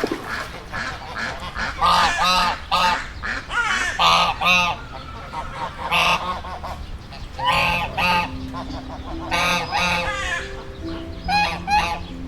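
Farm fowl calling: harsh, repeated calls that come in short clusters every second or two, several overlapping.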